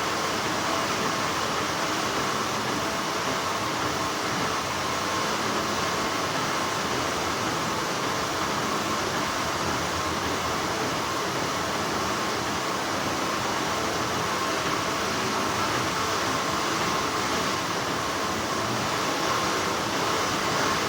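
Textile factory machinery running with a steady, continuous whir and a faint high hum, unchanging throughout.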